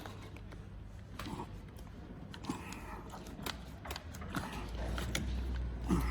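Scattered light clicks, knocks and rubbing as a rubber handlebar grip is pushed and twisted onto the glued handlebar, with a low rumble coming in about two-thirds of the way through.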